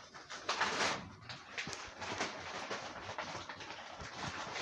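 Scraping and rustling from a container of homemade peanut butter spread being stirred and handled, loudest about half a second in, with scattered small clicks.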